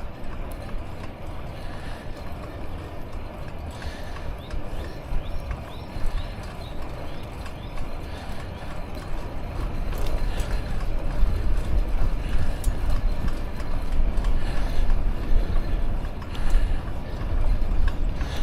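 Wind buffeting the microphone of a neck-mounted action camera on a moving bicycle, over the hiss of the tyres on the path. The low wind rumble grows stronger about ten seconds in.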